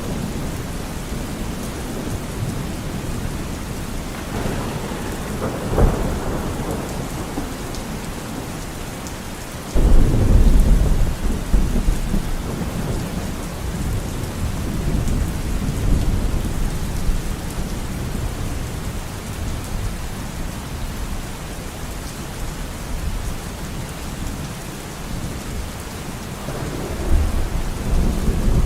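Steady rainfall with thunder: a low rumble swells about five seconds in, a loud clap of thunder breaks about ten seconds in and rolls on for several seconds, and another rumble rises near the end.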